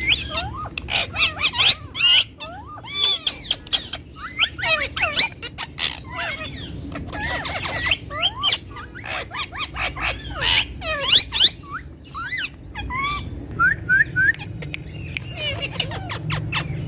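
Ringneck parrots chattering and squawking in a rapid, irregular run of short, shrill, sliding calls, with three quick rising notes near the end.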